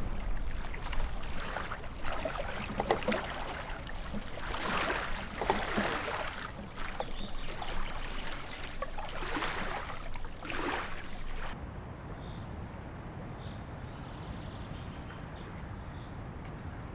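Water splashing in irregular bursts around a small boat on the river. About eleven seconds in it cuts off abruptly to a steady low background with a few faint bird chirps.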